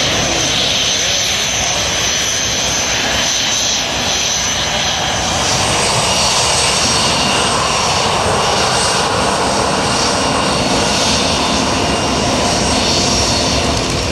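Aircraft engine running loudly and steadily, with a steady high whine on top, growing a little louder about five seconds in.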